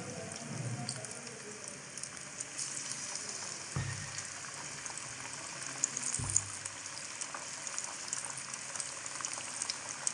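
Fish pieces deep-frying in hot oil: a steady sizzle with fine crackling pops. Two short low thumps come about four and six seconds in.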